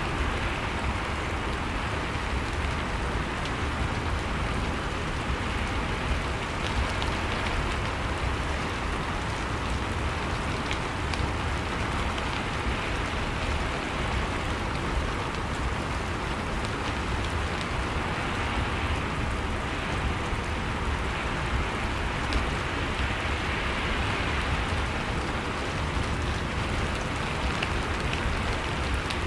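Steady rain falling in a dense, even hiss, swelling and easing a little every five or six seconds.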